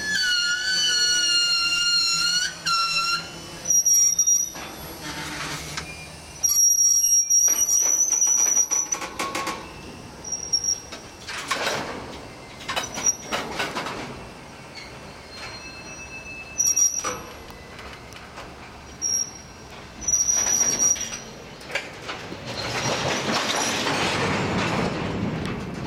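Railcar wheels squealing against the rails as a freight train moves slowly through the yard during switching, in repeated high-pitched squeals that start and stop, with clicks over the rail joints. Near the end a rumble of the rolling train swells up.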